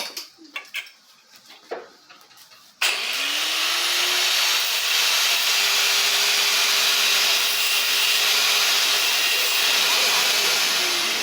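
A few light knocks, then a motor-driven machine switches on abruptly about three seconds in, spins up with a rising whine and runs steadily with a loud rushing hiss; its pitch drops slightly near the end.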